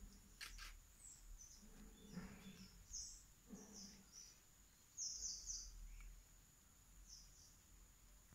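Faint outdoor bird chirps: short, high notes now and then, with a quick run of three about five seconds in, over a thin, steady high-pitched tone.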